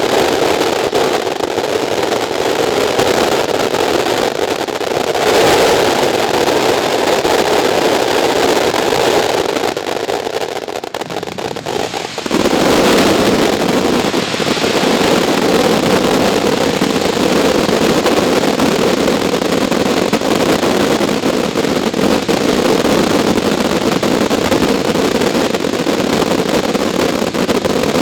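Fireworks going off in a dense, continuous barrage, so thick that no single bang stands out. It eases off about ten seconds in and comes back suddenly at full strength a couple of seconds later.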